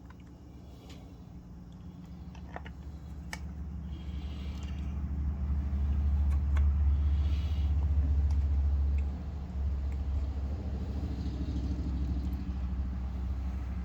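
Septic aerator air pump running with a steady low electrical hum, growing louder over the first few seconds, dropping suddenly about nine seconds in, then holding steady. A few sharp clicks of handling are heard early on.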